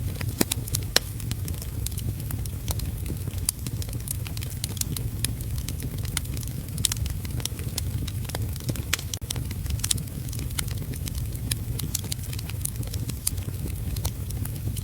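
Wood fire in a fireplace crackling, with frequent irregular sharp pops, over a steady low rumble and hiss of heavy rain.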